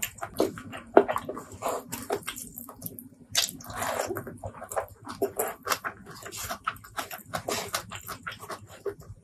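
Close-miked eating sounds of someone eating curry-mixed rice by hand: wet chewing and lip-smacking. There are many quick sticky clicks, with a longer, denser stretch about three and a half seconds in.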